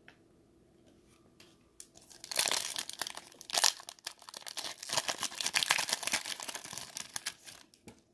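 Trading-card pack wrapper being torn open and crinkled by hand: a dense crinkling rustle with sharp spikes that starts about two seconds in and runs for some five seconds.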